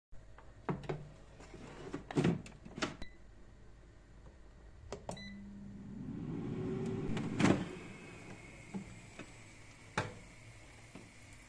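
A few knocks of kitchen handling, then a short electronic beep and a Xiaomi Mi Smart Air Fryer's fan motor spinning up, its hum rising in pitch and settling into a steady whine as the fryer starts. A sharp clack sounds about halfway through.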